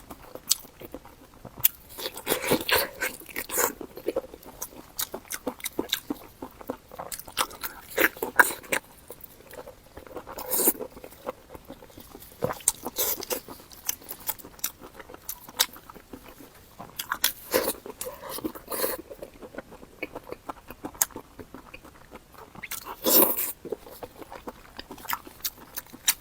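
Close-up chewing of pig ear: the cartilage crunches and crackles between the teeth in irregular bites, with one louder crunch near the end.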